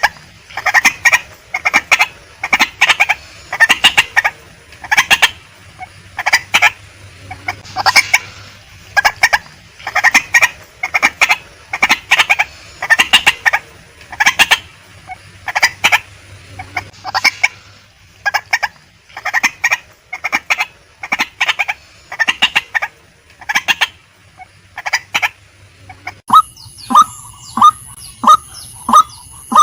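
Female white-breasted waterhen calling: loud, clucking call notes repeated rapidly in groups. About 26 seconds in, the recording changes to evenly spaced, lower calls at roughly two to three a second.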